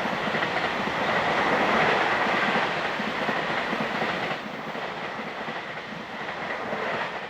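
Steady rushing vehicle noise with a thin high whine held over it, easing a little about four and a half seconds in.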